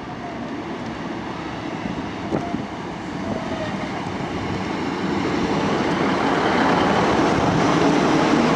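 Class 150 Sprinter diesel multiple unit approaching and running in along a station platform, its diesel engine and wheels on the rails growing steadily louder as it draws alongside.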